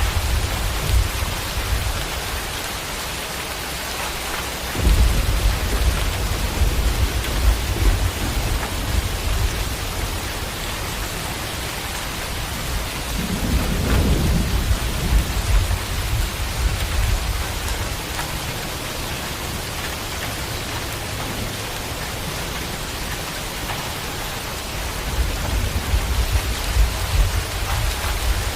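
Steady rain falling, with rolls of low thunder rumbling in about five seconds in, again around the middle, and near the end.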